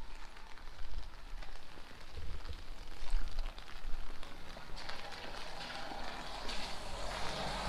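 Rain falling on a street, a steady hiss full of fine raindrop patter, with low rumbles of wind on the microphone. The hiss swells louder in the second half.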